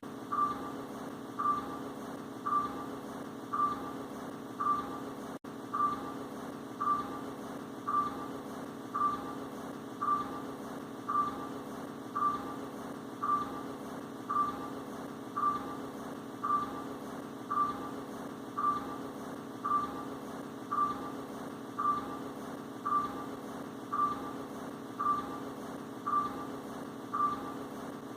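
Electric fan running with a steady motor hum, and a short high chirp about once a second, evenly spaced.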